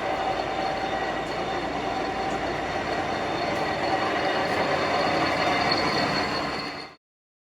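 Summit gap bed engine lathe running under power, a steady mechanical drone with several gear-whine tones from its headstock. It grows slightly louder, then cuts off abruptly about seven seconds in.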